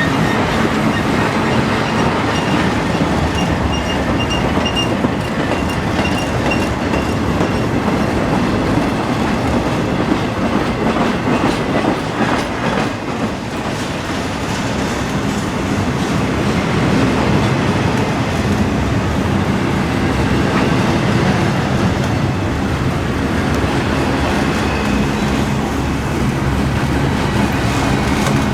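BNSF intermodal freight train rolling past, steel wheels clicking over the rail joints, with a faint high squeal about four seconds in.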